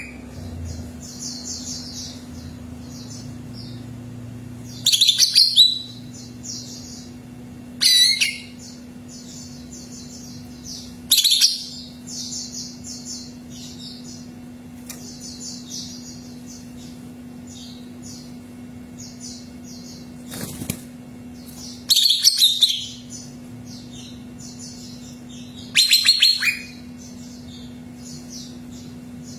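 Cucak ijo (green leafbird) singing: loud, high-pitched phrases of about a second each come every few seconds, with fainter chirps between them, over a faint steady hum.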